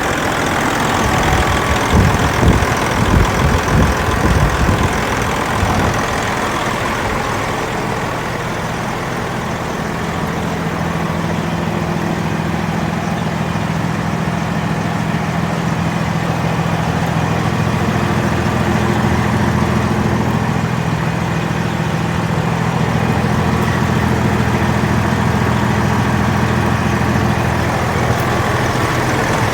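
Heavy diesel engine of a 2001 Freightliner Century semi truck idling, a pre-emissions engine with straight turbo and exhaust. It rumbles unevenly for the first several seconds, then settles into a steady idle.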